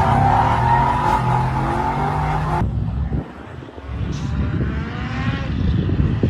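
Mercedes W108 with a swapped-in C63 S AMG engine, running hard. The sound cuts abruptly about two and a half seconds in. In the second part the engine pitch and loudness rise as it accelerates.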